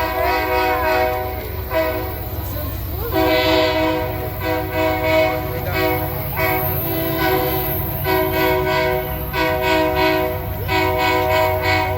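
Train horn sounding in a series of held blasts of about a second each with short breaks, over the steady low rumble of the locomotive.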